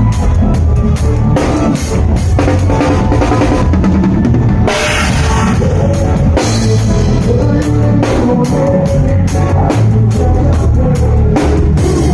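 Loud band music led by a full drum kit, with dense, rapid drum hits over a heavy bass line.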